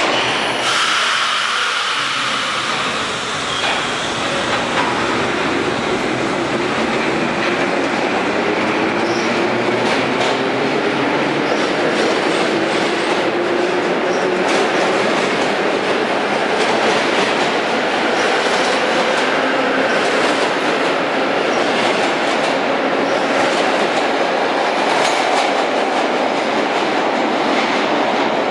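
Vintage R1/R4/R7/R9 'Arnine' subway cars running, with a steady rumble and the clack of wheels over rail joints. A motor whine rises slowly in pitch as the train picks up speed, and there is some high wheel squeal early on.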